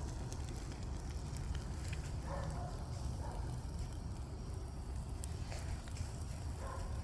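A dishwasher burning in an open gasoline-lit fire: a steady low rumble with scattered light crackles.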